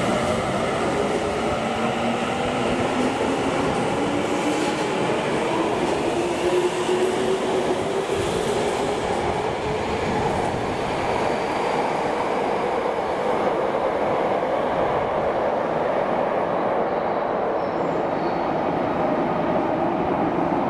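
Electric subway train pulling out of the station, its traction motors whining in a tone that rises slowly and steadily as it accelerates, over a continuous rumble of wheels on rail.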